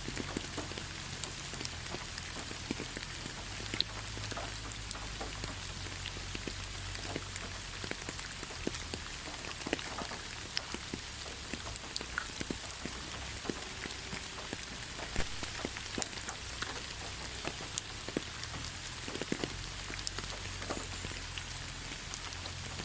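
Steady gentle rain falling, a soft even hiss with many separate drops pattering and ticking on a hard surface.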